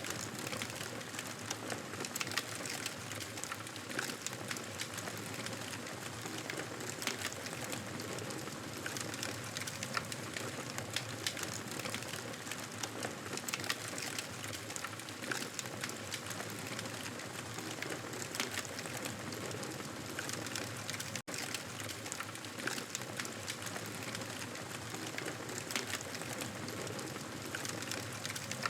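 Wood fire crackling in a fireplace: a steady hiss dense with small irregular pops and snaps. The sound cuts out for a split second about two-thirds of the way through.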